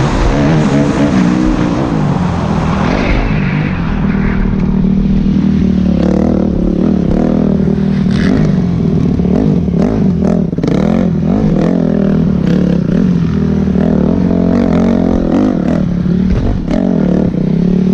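Dirt bike engine running and revving, its pitch wavering up and down, with louder, harsher running in the first few seconds. A few short clicks or knocks come through in the middle.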